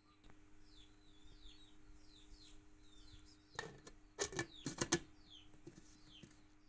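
Small birds chirping over and over in short falling notes, over a steady low hum. A quick cluster of sharp clicks and knocks, the loudest sound, comes about three and a half to five seconds in.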